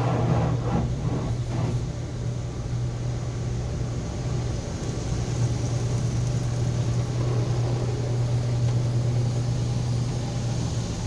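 Automatic car wash machinery running: a steady low hum under a constant rushing noise, with a few short knocks in the first couple of seconds.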